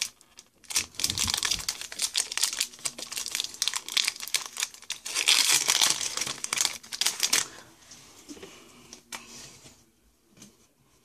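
Foil Pokémon card booster pack being torn open and handled: dense crinkling and tearing of the wrapper for about seven seconds, then a few faint rustles.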